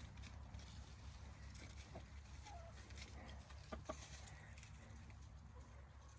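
Faint clucks from foraging chickens, with a short call about two seconds in and a couple of sharp clicks just before the four-second mark.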